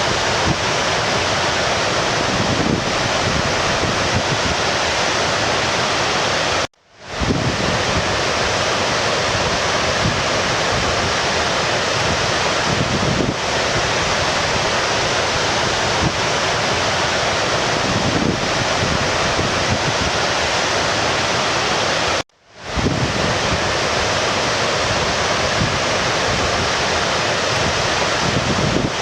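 A creek's water rushing in a steady wash. Twice, about fifteen seconds apart, it cuts out suddenly and swells back in within half a second.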